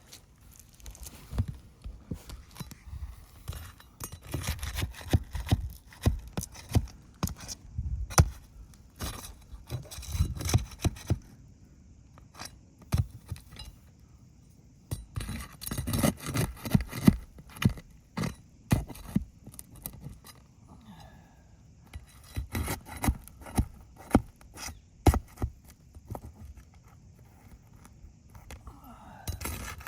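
Asphalt roof shingles being lifted and worked by hand for a repair: irregular clusters of scraping, crackling and clicking, with a lull a little before the middle.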